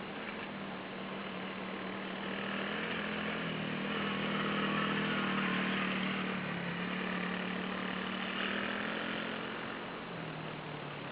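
Small 110 cc dirt bike engine running, its note and loudness rising to a peak about five seconds in, then easing back down.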